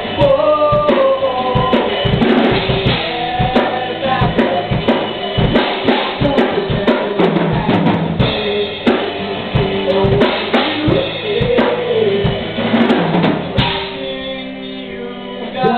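Rock band playing live, an instrumental passage with the drum kit to the fore: steady bass drum and snare hits under pitched instrument lines. About two seconds before the end the drums stop, leaving held notes ringing.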